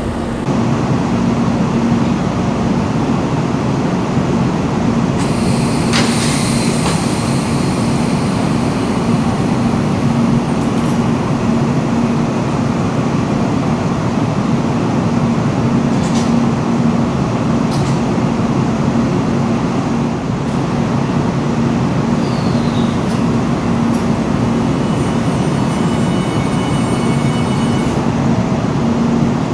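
A train at a station running with a steady low drone and hum, with a few sharp clicks in the middle and a thin high whine near the end.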